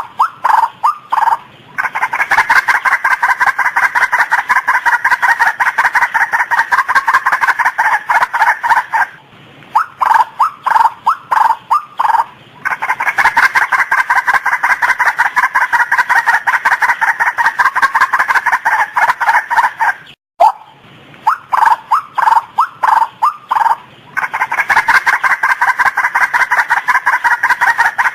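Female white-breasted waterhen calling loudly. A few separate hoarse notes speed up into a long run of fast, rapid-fire notes lasting several seconds, and the sequence repeats about three times.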